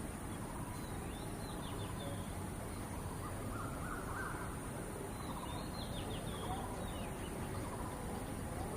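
Crows calling in short bursts, the loudest run about halfway through, over a steady background noise.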